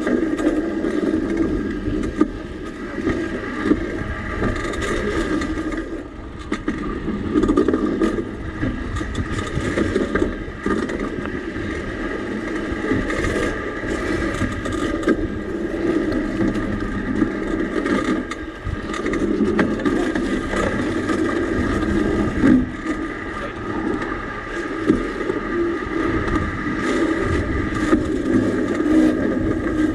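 Home-built railbike rolling along steel rails: a steady running noise with a high whine, broken now and then by sharp clicks.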